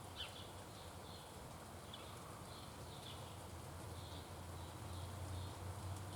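A small bird calling with short, high chirps, about two a second, over a steady low hum.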